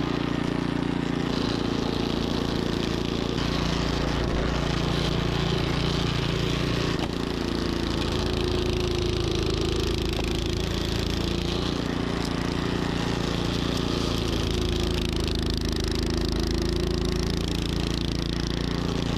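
Troy-Bilt snowblower engine running steadily under load while clearing deep snow.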